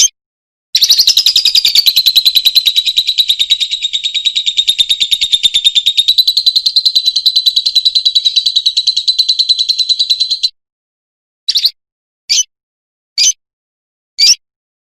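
Lovebird giving a long, rapid chattering trill of repeated high notes for about ten seconds (the long 'ngekek' call), then breaking into single sharp chirps about once a second.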